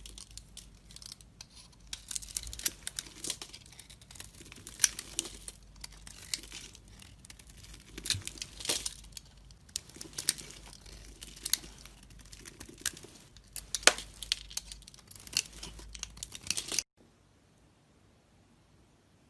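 Knife cutting and scraping through a bar of soap, a dense run of crisp crackling and crunching cuts with sharp clicks. It stops abruptly near the end.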